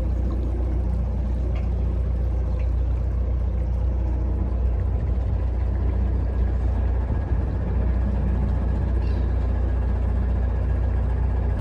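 Narrowboat's inboard diesel engine running steadily at cruising speed, a constant low hum.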